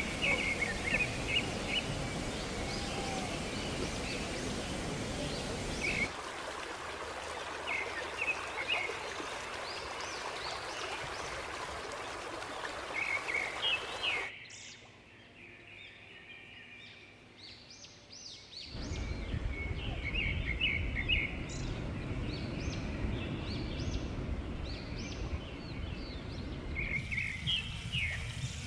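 Small birds chirping in short repeated calls over a steady outdoor rushing noise. The noise changes at several points and drops away to a quieter stretch for a few seconds in the middle, while the chirps carry on faintly.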